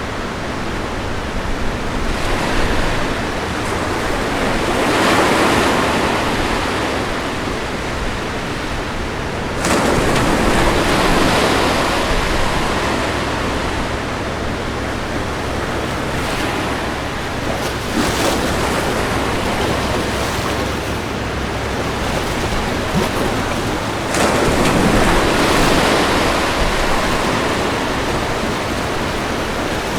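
Ocean surf: a continuous wash of waves, each swelling louder as a wave breaks, about every six to eight seconds.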